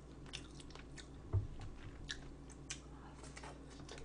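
A person chewing food close to the microphone: faint scattered small crunches and mouth clicks, with one soft low thump about a second and a half in.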